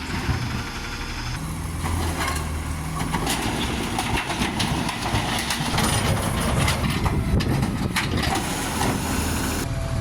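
Garbage truck engine running steadily, with repeated knocks and clatter over it.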